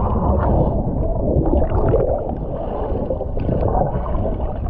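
Seawater sloshing and gurgling close to the microphone, a dense, muffled churn with low rumble.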